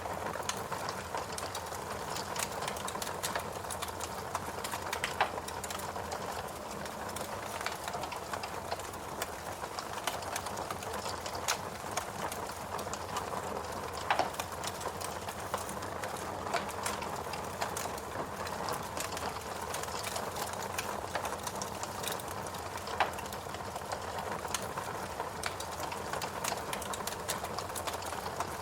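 Fireplace crackling: a steady hiss of burning with dense small crackles and a few louder pops.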